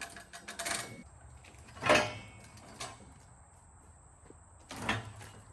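Rapid clicking that stops about a second in, then two loud scraping knocks about three seconds apart, from a log being worked into place on a portable sawmill.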